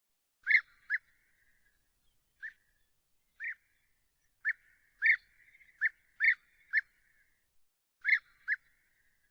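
A bird giving short, clear call notes, about eleven of them, spaced irregularly and often in quick pairs.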